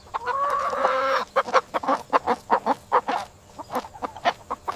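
Domestic chicken giving one drawn-out call, then a run of short clucks, about four a second.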